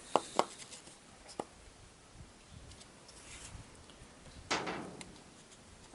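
Handling sounds of a small part being fitted: three sharp clicks in the first second and a half, then a short scraping rustle about four and a half seconds in, as the heater fan impeller is pushed onto the motor shaft.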